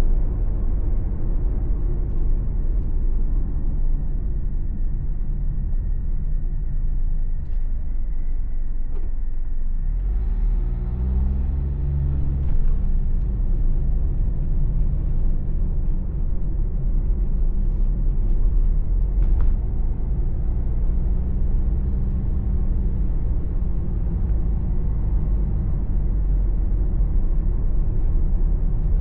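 Car engine and tyre-on-road noise heard from inside the cabin while driving, a steady low rumble. About ten seconds in, the engine note rises as the car speeds up, and it rises more faintly again later on.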